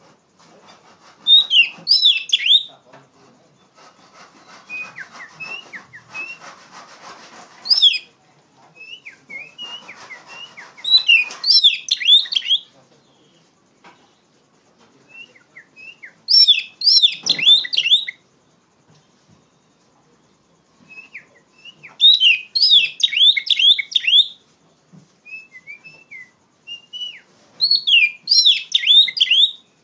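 Oriental magpie-robin (kacer) singing loudly: bursts of rapid, sharp, high phrases every four to six seconds, with single clear whistled notes between them. A soft rustling runs under the song in the first half.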